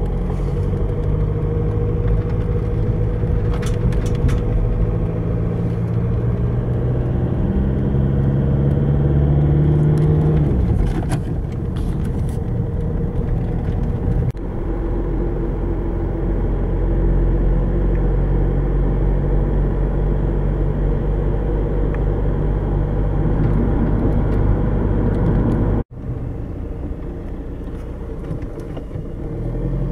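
Volkswagen Golf Mk5 engine running at low revs, heard from inside the cabin with some road noise. The engine note rises for a few seconds and then falls about ten seconds in. There is a brief sudden cut-out near the end.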